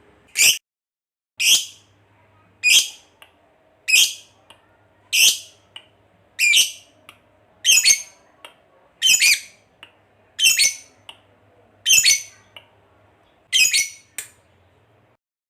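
Lovebird giving short, shrill calls, eleven in a row at about one every 1.3 seconds.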